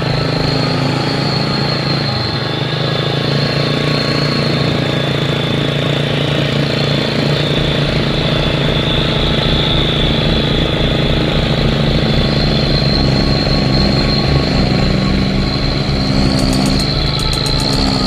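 Truck engine running steadily with a pulsing low rumble, alongside a steady, slightly wavering high-pitched whine.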